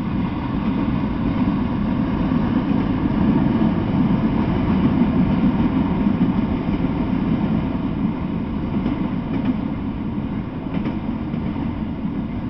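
Freight train of enclosed autorack cars rolling past: a steady low rumble of steel wheels on the rails, a little louder in the middle, with a few faint clicks in the later part.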